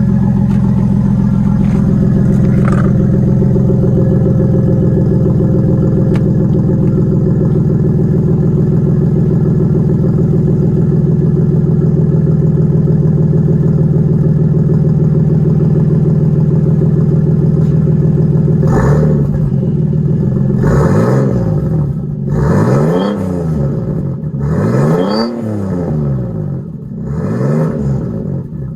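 Toyota Supra JZA80's 2JZ-GTE twin-turbo straight-six idling steadily through a straight pipe in place of the catalytic converter and a TRUST aftermarket muffler. About two-thirds of the way through, it is blipped up and back down, about once every two seconds, several times.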